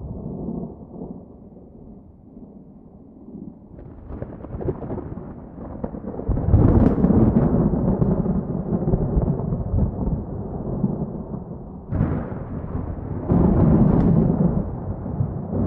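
Thunder: a low rumble, then a loud clap about six seconds in that rolls on for several seconds, and another loud clap with a long roll starting about twelve seconds in.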